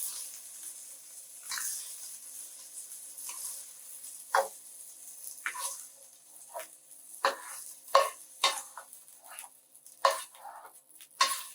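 A utensil scraping and knocking against a frying pan, with a series of sharp strikes that come more often in the second half, while oil sizzles faintly in the pan. The sautéed red pepper is being moved and scooped out of the pan.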